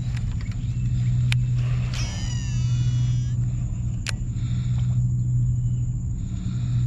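A steady low motor hum throughout. About two seconds in, a Shimano SLX DC baitcasting reel whines for about a second and a half as a lure is cast, its pitch falling as the spool slows, with a sharp click before it and another after.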